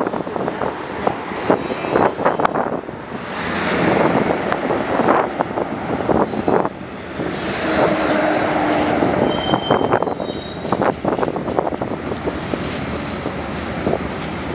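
Freight train rolling slowly, its railcar wheels clicking and clattering over the rail joints, with a brief high squeal about two-thirds through. It is a local train shoving backwards.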